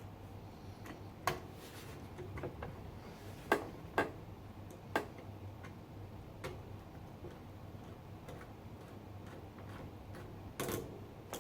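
Scattered sharp clicks and light knocks, about half a dozen spread unevenly, from hands and tools working on a PC's water-cooling block and its fittings during teardown, over a faint steady low hum.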